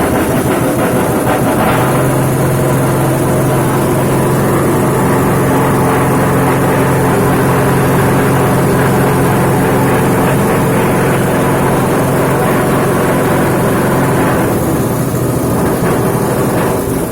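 Lakoni Forza 5.5 HP single-cylinder four-stroke petrol engine, GX160 type, running steadily just after being pull-started, driving a coconut grating machine. It settles to an even note about two seconds in.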